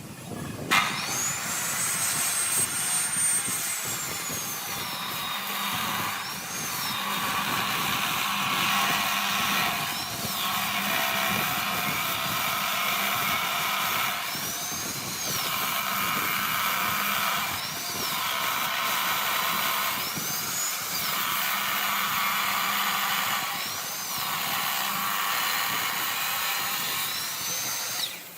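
Woodworking power tool motor starting with a rising high whine, then working, its pitch falling and rising again about six times a few seconds apart, with a noisy cutting sound in between.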